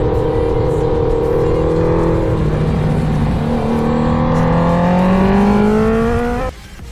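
Honda CBR650R's inline-four engine running through a full aftermarket replica Akrapovic exhaust while riding: it holds a steady pitch, drops in pitch a little over two seconds in, then rises steadily as the bike accelerates, before cutting off suddenly near the end.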